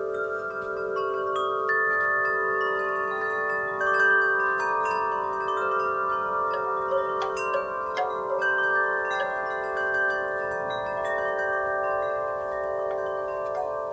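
Wind chimes struck irregularly by the breeze, several metal tones at once ringing on and overlapping.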